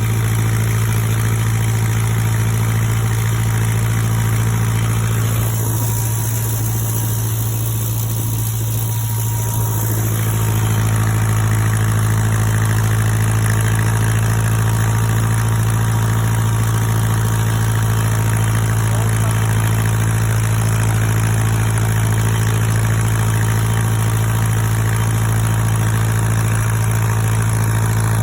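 Steyr 8073 tractor's diesel engine running at a steady speed, an even low drone throughout. The higher hiss thins for a few seconds near the start, then returns.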